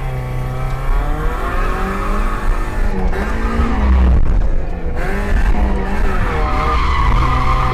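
Mazda MX5 1.6's standard four-cylinder engine revving high and rising and falling in pitch, with tyres squealing through a drift; the squeal grows stronger near the end.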